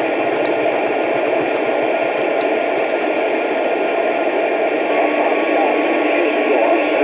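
Steady static hiss, thin and cut off in the highs like sound over a phone or radio line.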